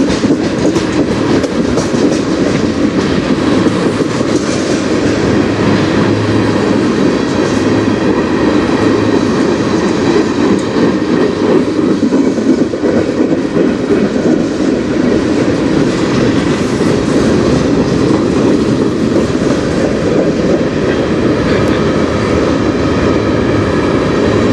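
A train going past, its cars rolling along the track with a steady, loud noise of wheels on rail that holds unchanged throughout.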